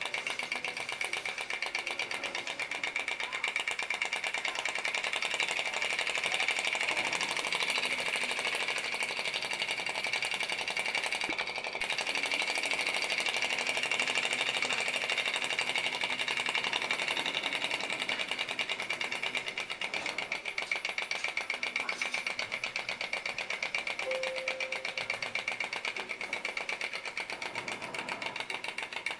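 Star Power vacuum (flame-licker) model engine with a dual flywheel running, making a fast, even clatter.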